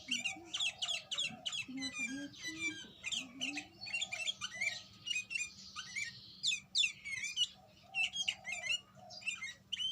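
A bird calling in a fast, dense stream of high, sharply falling chirps and squeaks, mixed with a few lower warbling notes.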